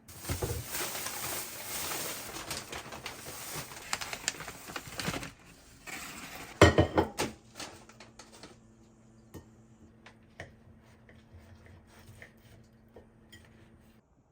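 Dishwashing at a kitchen sink: running water for about five seconds, then a loud clatter of dishes, followed by scattered light clinks of dishes and cutlery.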